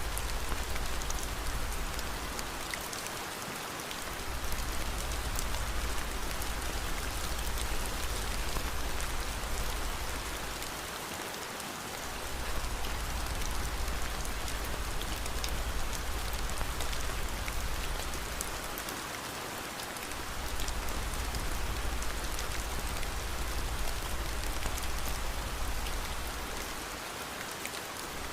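Steady rain falling, an even hiss with scattered small drop ticks. A low rumble underneath dips out briefly about every eight seconds.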